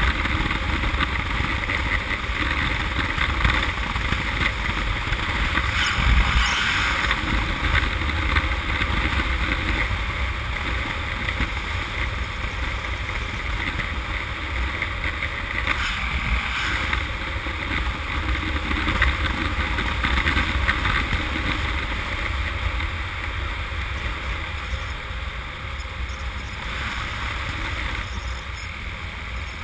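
Honda CM200T motorcycle's small parallel-twin engine running at road speed under steady wind rush, with a deep rumble; the wind swells briefly twice.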